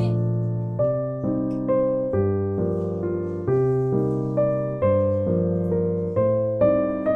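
Background piano music: a gentle melody over changing chords, with a new note struck about every half second, each fading away before the next.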